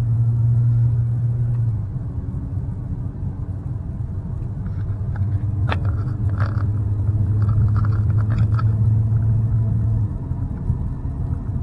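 Inside the cabin of a BMW 328i (E9x) with its muffler deleted, windows up: the straight-six engine and exhaust give a low, steady drone under light acceleration. The note steps down at the very start and the level drops about ten seconds in, as at gear changes, with a few faint clicks in the middle.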